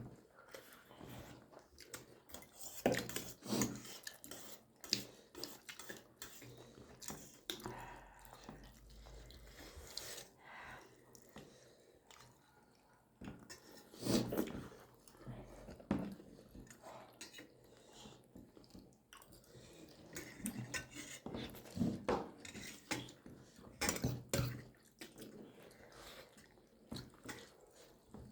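Eating sounds while momos are being eaten: scattered clinks and taps of plates and cutlery, with chewing, separated by quieter gaps.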